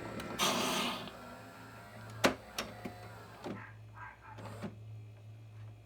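Saeco Vienna coffee machine running with a steady low hum, a short hiss about half a second in, and several clicks, the sharpest a little over two seconds in.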